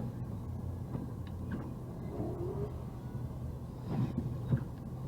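A car running with a steady low hum and a couple of faint knocks about four seconds in.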